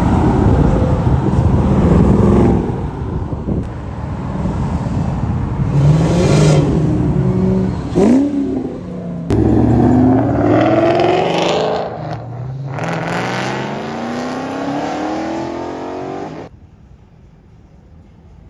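Mustang engines revving and accelerating hard, rising in pitch through the gears several times in succession, as the cars pull out or pass by. The sound cuts off suddenly to a much quieter low rumble near the end.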